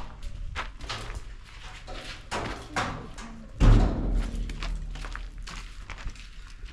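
Irregular clicks and rustles of things being handled, with one heavy thud about three and a half seconds in.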